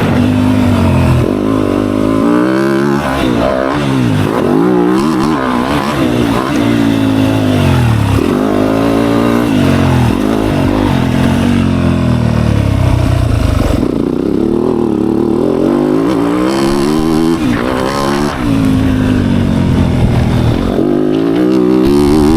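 Dirt bike engine being ridden around a motocross track, its revs climbing and dropping again and again as the rider throttles, shifts and backs off.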